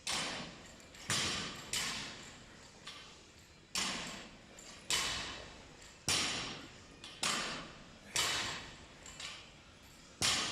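A series of sharp impacts at irregular intervals, about one a second, each followed by a short echoing decay as in a large hall.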